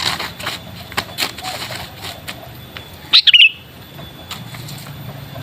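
Sooty-headed bulbul (kutilang) moving about, with a run of short clicks and rustles of wings and perch, then one loud, short, wavering call a little past three seconds in.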